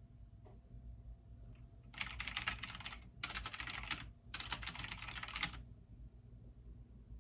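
Typing on a computer keyboard: three quick runs of keystrokes starting about two seconds in, with brief pauses between them.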